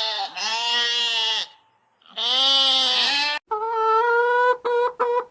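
A goat bleating three times, each a loud wavering bleat of about a second, the first already under way. From about halfway through, a different steady pitched call begins and breaks into quick short repeated notes near the end.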